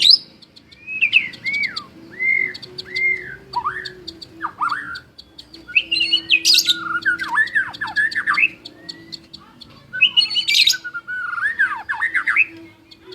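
White-rumped shama (murai batu) singing: a run of clear arched whistles, then varied down-slurred notes broken by two bursts of harsh, high chattering about six and ten seconds in.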